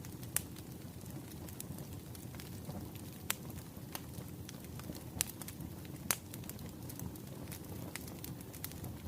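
Wood fire burning with a steady low rumble and scattered sharp crackles and pops, four of them louder than the rest.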